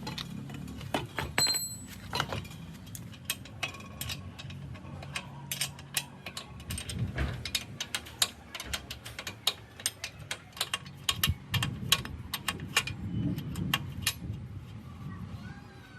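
Hand tools and metal motorbike parts clicking and clinking at an uneven pace, with a low steady hum underneath.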